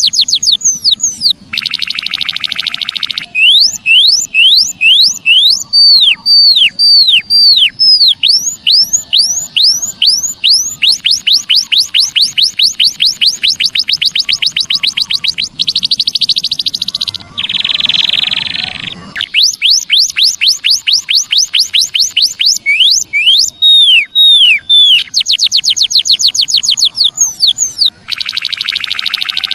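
White-headed munia (emprit kaji) song: a fast run of sharp, high, falling whistled notes, several a second, broken now and then by short buzzy rasping stretches.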